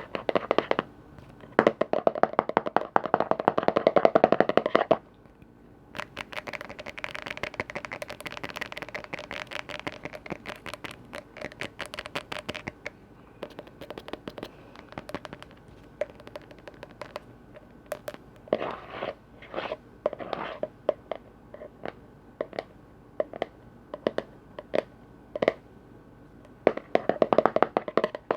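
Fast tapping on container lids, in dense flurries with sparser single taps between; the loudest flurries come a couple of seconds in and again near the end.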